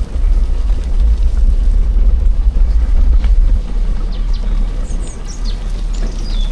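A loud, uneven low rumble that eases about three and a half seconds in, with a songbird singing short high chirping phrases over it near the end.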